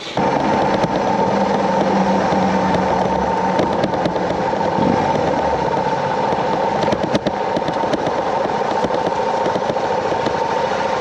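Suzuki DR650's single-cylinder four-stroke engine running steadily.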